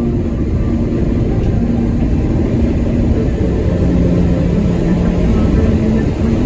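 Truck cab noise while driving at motorway speed: a steady low engine and road rumble with a droning engine tone that drops in pitch a few seconds in.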